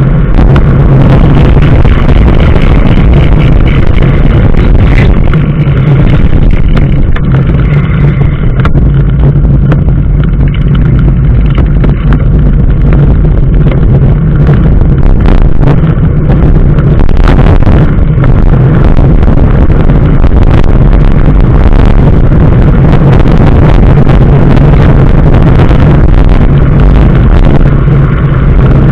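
A motor vehicle's engine running at a steady drone with road noise while being driven, with scattered short knocks.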